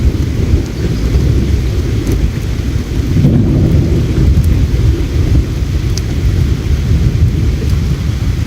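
Heavy, steady low rumble of outdoor ambience, with a few faint sharp crackles from a campfire scattered through it.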